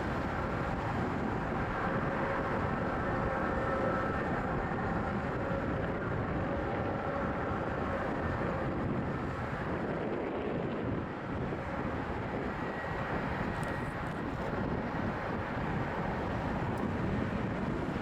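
Boeing 747-400 jet engines running at taxi power: a steady rumble with faint whining tones that are clearest in the first half.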